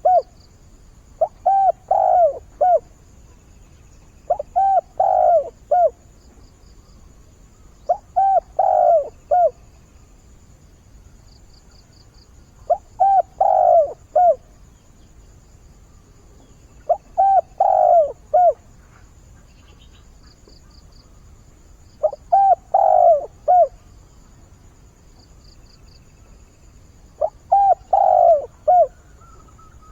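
Decoy spotted dove cooing its advertising call for a mate: a short phrase of about four coos, repeated seven times roughly every four to five seconds. Faint high chirping trills sound between the phrases.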